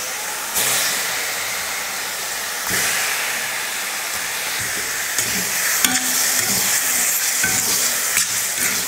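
Raw mutton liver pieces sizzling in hot oil in a stainless steel kadai; the sizzle steps up twice as more pieces go into the pan. From about five seconds in, a spatula stirs the liver, with a few clicks and scrapes against the pan.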